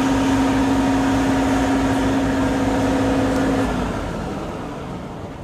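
Off-road trial truck's engine running under load with a steady whine over a low pulsing rumble; the whine stops about three and a half seconds in and the engine fades away.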